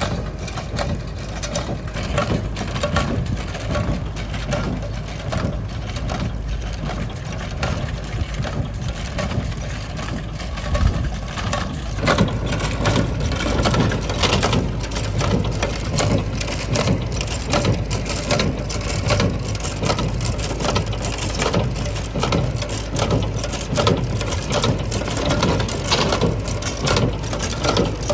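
Tractor engine running with a Massey Ferguson 20 baler working behind it. From about twelve seconds in, a fast, regular clattering of the baler joins the engine's steady drone.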